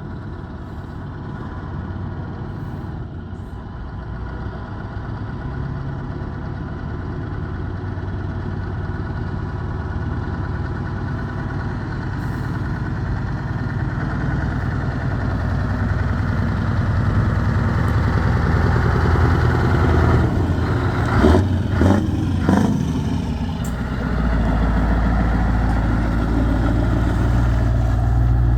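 Scania V8 truck engine with open, straight exhaust pipes running, growing steadily louder. Three quick blips of the throttle come about three-quarters of the way through, followed by a louder, steady low note near the end.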